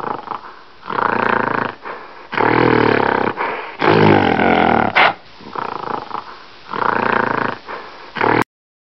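Gorilla vocalizing: a run of about six loud calls, each around a second long, that cuts off suddenly shortly before the end.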